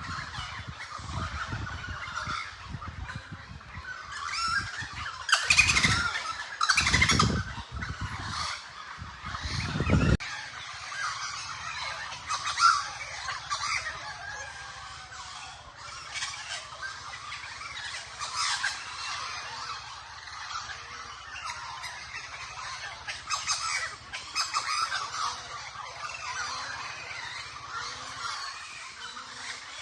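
A flock of crows calling and cawing over one another, many overlapping harsh calls throughout. Loud low rumbling noise runs under the calls for the first ten seconds or so, then stops.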